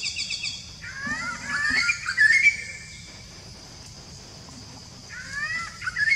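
A bird calling in three bursts of quick, rising whistled notes: one as it begins, a louder run about a second in, and another near the end.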